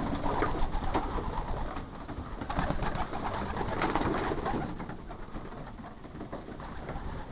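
Racing pigeons cooing and moving about in a loft, with many scattered small clicks and scuffs.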